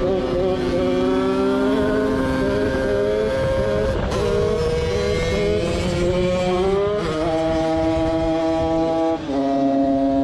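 Two-stroke moped engine built with a TPR 76cc cylinder kit, 24 mm Mikuni carburettor and DRP expansion-chamber exhaust, running at high revs with a high-pitched note. The pitch slides up and down several times, with a sharp change about seven seconds in and a brief dip and a step to a new steady pitch about nine seconds in.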